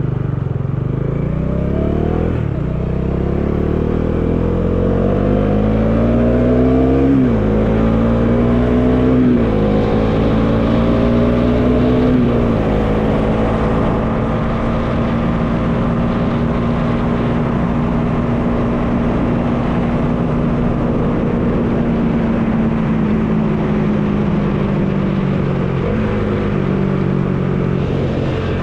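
Bajaj Dominar 400's single-cylinder engine pulling away and accelerating up through the gears, the revs climbing and dropping at four upshifts in the first twelve seconds, then cruising at steady revs, with wind noise rushing past; the revs ease down slightly near the end.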